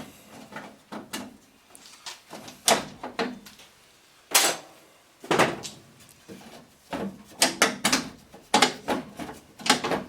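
Sharp metal clanks and knocks of hand tools and parts against a pickup truck's door shell as it is taken apart. A dozen or so irregular strikes, coming thicker in the last few seconds.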